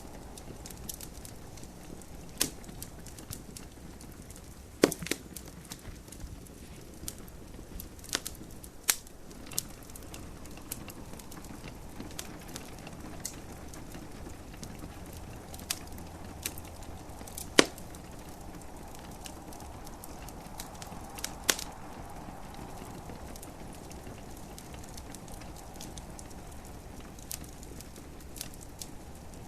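Wood fire crackling in a fireplace, with sharp pops at irregular intervals, a few much louder than the rest, over a steady soft hiss of gentle rain.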